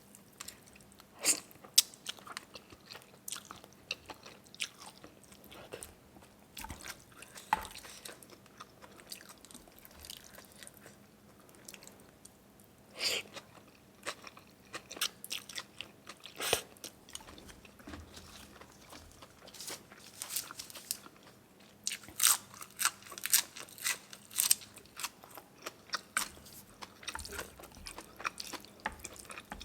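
Close-miked eating: a person chewing and biting beef noodle soup, with irregular crunches and mouth clicks, denser and louder in the second half.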